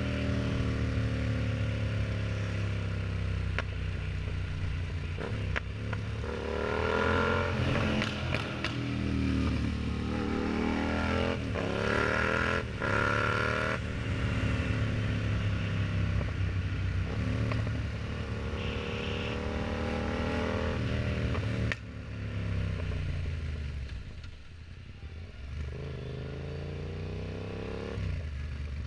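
Yamaha MT-07's 689 cc parallel-twin engine through an aftermarket exhaust, riding along with the revs rising and falling repeatedly as it accelerates through the gears and eases off. The engine settles to a quieter run about three quarters of the way through.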